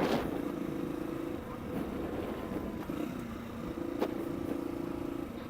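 Suzuki SP250's single-cylinder four-stroke engine running while the motorcycle is ridden, with wind rumbling on the microphone. The engine note fades for about two seconds near the middle and then comes back steady, with a single sharp click just after it returns.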